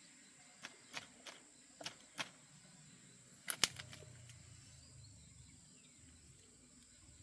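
A handful of sharp, irregular knocks and clicks, the loudest a quick double knock about three and a half seconds in, over a steady thin high-pitched tone.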